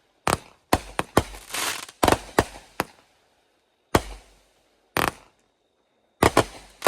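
Fireworks going off: about a dozen sharp bangs at uneven intervals, some in quick pairs and triplets, several followed by a short crackle, with brief pauses about midway and again before a last cluster of bangs near the end.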